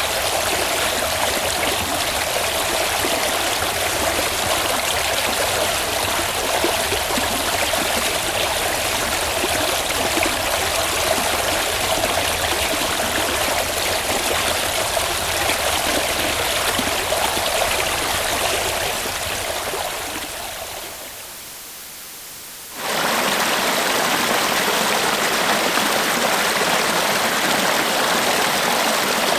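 River water flowing in a steady rush. It fades out about twenty seconds in, and a few seconds later a different recording of flowing river water starts abruptly.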